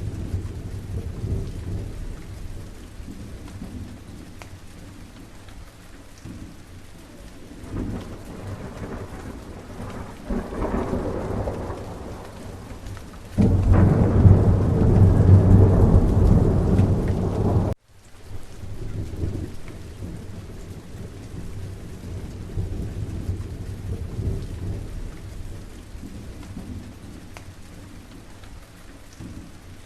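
Steady countryside rain with rumbles of thunder. The loudest, deep thunder rumble starts a little before halfway and cuts off abruptly a few seconds later, and the rain carries on.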